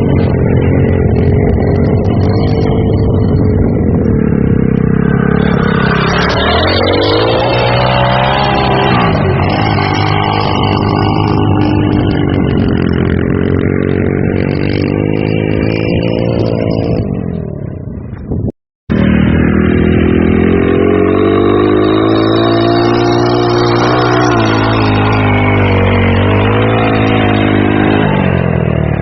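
Small off-road vehicle engine revving up and down again and again under changing throttle. The sound cuts out abruptly for a moment about two-thirds of the way through, then the engine carries on.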